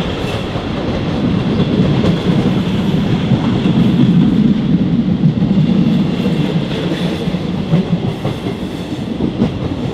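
Old regional passenger train running along the line, heard through an open carriage window: a steady rumble of wheels on the rails with a few faint clicks.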